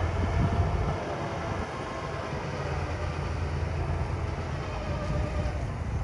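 Heavy earthmoving machinery's diesel engine running steadily: a low rumble with a faint whine riding above it.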